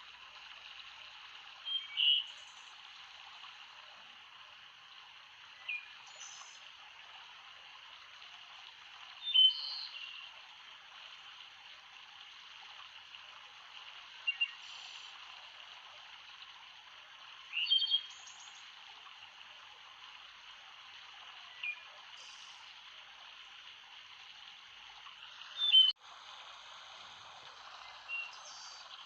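Steady rush of running water, with short bird chirps breaking in every few seconds.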